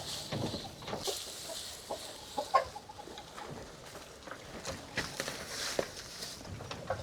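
Chickens clucking, with short calls and scattered small knocks and rustles; the loudest call comes about two and a half seconds in.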